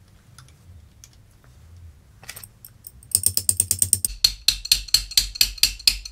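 Hand ratchet wrench clicking in quick, even runs from about three seconds in as it is swung back and forth on a tight exhaust oxygen sensor.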